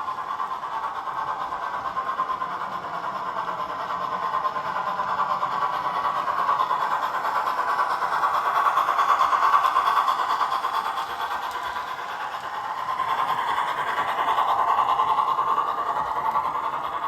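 Dapol 14xx 0-4-2T O gauge model tank locomotive, converted to 3-rail, running on track: a steady rolling rattle of wheels and motor that grows louder and fades twice as it passes by.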